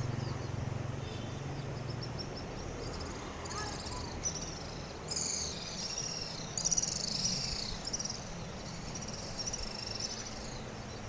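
Birds chirping in short bursts of high twittering calls, loudest about five to seven seconds in, over a steady outdoor background. A low hum fades out about two seconds in.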